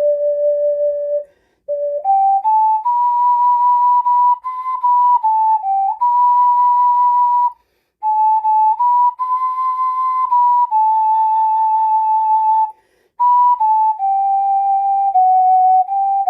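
Alto G ocarina playing a slow melody solo with no accompaniment. Clear, almost pure held notes step up and down, broken by three brief gaps between phrases: about a second in, halfway through, and near the end.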